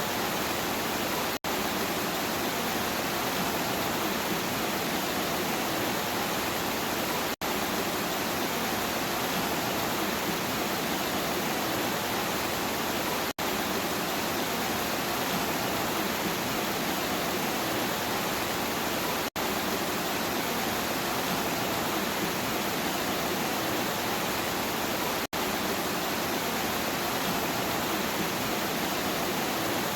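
Steady rain. It is cut by a very short drop-out about every six seconds.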